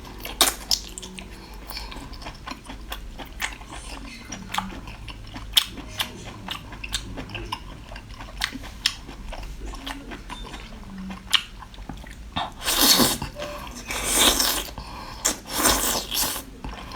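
A person biting and chewing crunchy food close to the microphone, with sharp crunches all through. Near the end come three louder, longer bursts of crunching noise.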